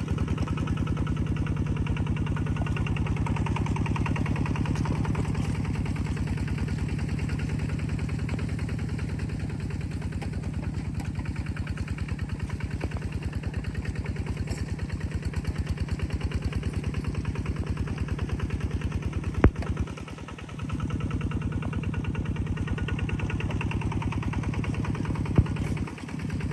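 An engine running steadily with a fast, even beat, dropping away briefly about twenty seconds in and again near the end, with a sharp click just before each drop.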